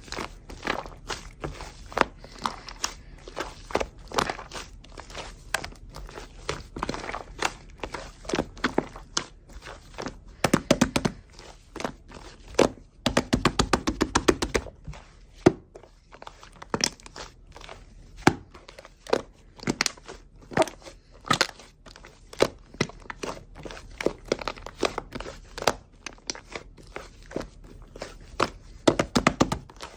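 Clear slime being squished and poked by hand, making a steady run of sticky clicks and pops. Quick runs of crackling pops come about ten seconds in and again around thirteen seconds in.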